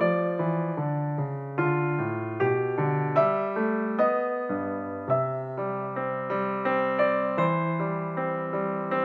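Background music: solo piano playing a gentle melody over a soft bass line, each note struck and fading.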